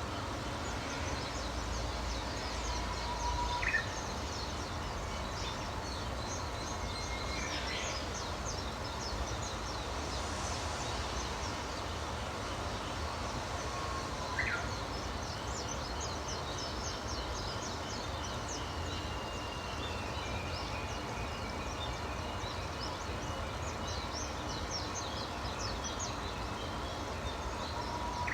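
Chorus of many small wild birds chirping and twittering in high, quick notes over a steady background hiss, with a couple of louder short calls standing out.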